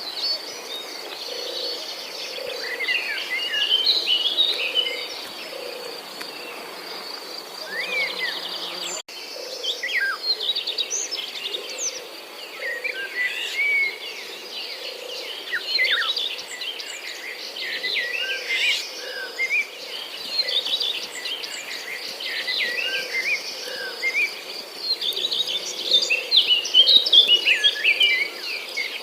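Many short, quick bird chirps over a steady, high insect trill, like crickets, with a low hum pulsing about once a second underneath. There is an abrupt break about nine seconds in.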